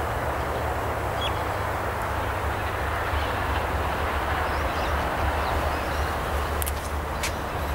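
Diesel locomotives 4204 and B65 approaching: a steady low engine rumble with a pulsing, buffeting low end, and a few sharp clicks near the end.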